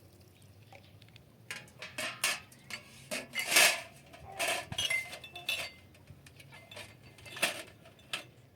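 Dishes and metal utensils clinking and knocking in an irregular run of handling sounds, with a few louder clanks about a third of the way in and again near the end.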